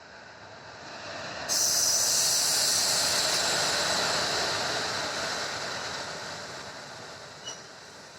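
Unchahar Express passenger train running past along the platform: a rushing rumble of wheels and air that builds, turns suddenly loud and hissing about a second and a half in, then slowly fades away.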